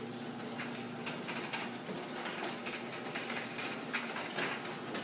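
Craftsman 139.53985D chain-drive garage door opener running as it moves the door: a steady motor hum with light, irregular clicking and clatter from the chain.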